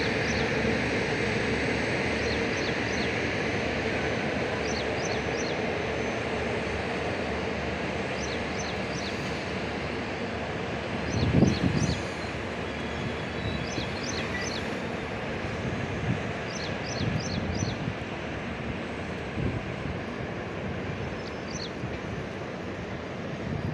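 A train running past, its steady rumble slowly fading as it draws away. Short high chirps come in small groups throughout, and a single knock sounds about eleven seconds in.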